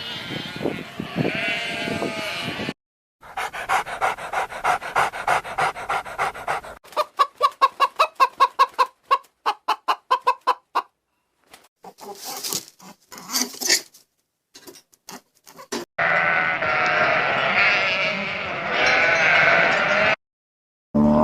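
A run of different animal calls in separate short clips, cut one after another with brief gaps between them, including bleating and a stretch of rapid, evenly spaced calls.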